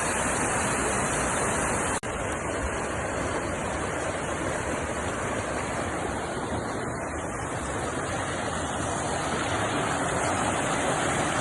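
Waterfall rushing: a steady, even wash of falling water, broken by a brief dropout about two seconds in.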